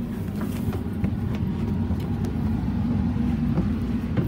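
Steady low rumble inside a passenger coach of a commuter train, with a few small knocks and clicks over it.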